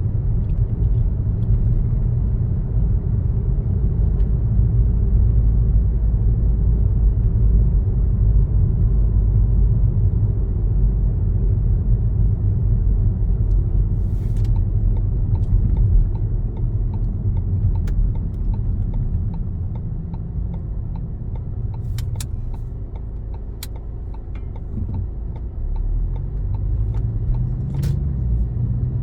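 Car driving along a road: a steady low rumble of road and engine noise, easing off a little for a few seconds past the middle, with a few sharp clicks in the second half.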